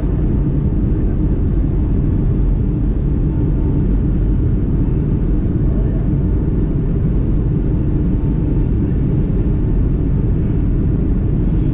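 Steady low rumble of an airliner in flight, heard from inside the passenger cabin.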